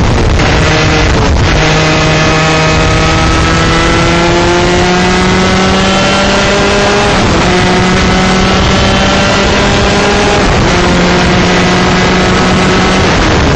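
125cc two-stroke shifter kart engine accelerating hard, its pitch climbing steadily and dropping briefly at two upshifts, about halfway and about three-quarters through, before falling away near the end as the throttle comes off. A heavy rush of wind over the onboard microphone runs under the engine.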